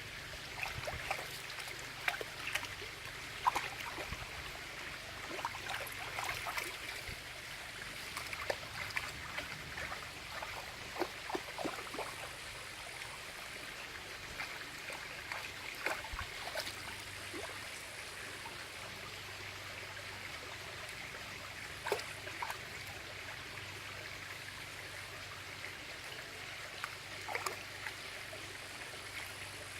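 Steady rush of running water, like a small stream, with short sharp sounds scattered through it, most of them in the first dozen seconds.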